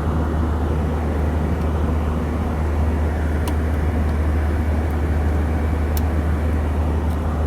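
Steady cabin drone of an Airbus A321 airliner in cruise: a constant low hum from the engines and the airflow over the fuselage, with two faint clicks partway through.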